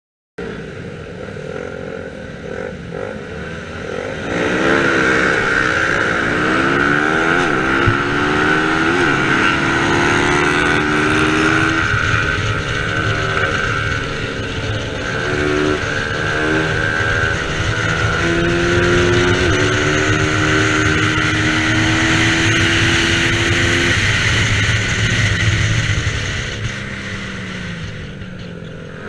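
Racing motorcycle engine at high revs. It climbs in pitch through several quick gear changes, holds high and steady for a long stretch, then eases off near the end.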